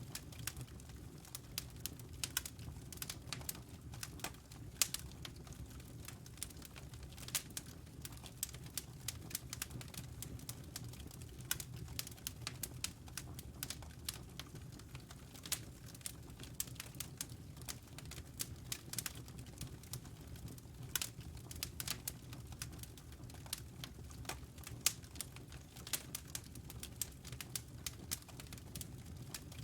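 Wood fire crackling in a fireplace: a steady, irregular stream of sharp pops and ticks from the burning logs over a low, even rumble of the flames.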